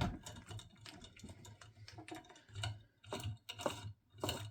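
Irregular small clicks and taps of hand tools and parts as wires and connectors are worked off an instant hot water boiler, with a few louder, duller knocks in the second half.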